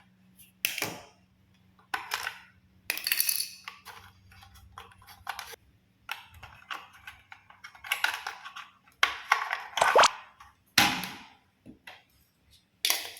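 Toy trains being handled: irregular clicks and light clinks of hard toy pieces knocking together, about a dozen spread over the time.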